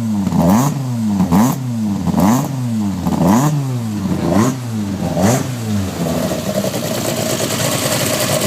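Peugeot 106 Rallye four-cylinder engine on individual GSX-R motorcycle throttle bodies, with high-compression pistons, big cams and a custom exhaust. The throttle is blipped about six times, roughly once a second, each rev rising and falling quickly and kept to modest revs on the freshly run-in engine. It settles to a steady idle about six seconds in.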